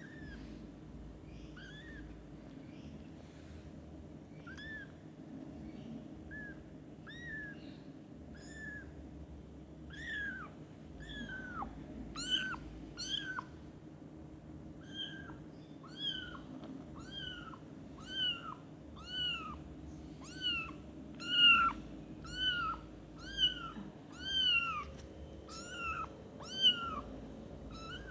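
Young kitten mewing over and over in short, high-pitched cries about once a second, faint at first and louder and closer together in the second half.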